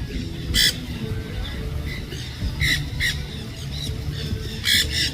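Birds squawking: a string of short, harsh calls, the loudest about half a second in and again near the end, with a steady low rumble beneath.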